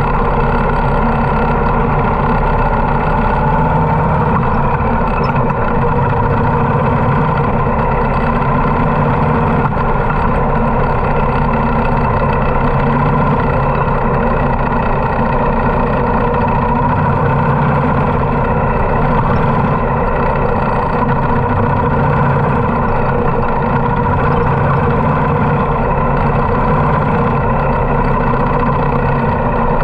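Harley-Davidson motorcycle's V-twin engine running at a steady, even speed while riding, with no clear revving.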